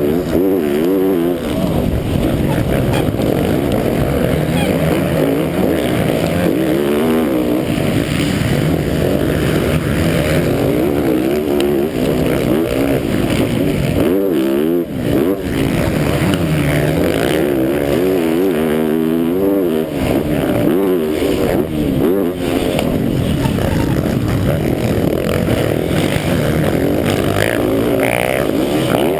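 MX1 motocross bike's engine heard from a camera mounted on the bike, revving hard and falling back over and over as the rider accelerates, shifts and shuts off through the track's sections, with a short lift off the throttle about halfway through.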